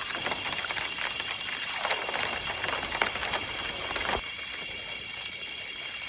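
A sudden shower of large raindrops pattering densely, easing off about four seconds in, over a steady high chirring of insects.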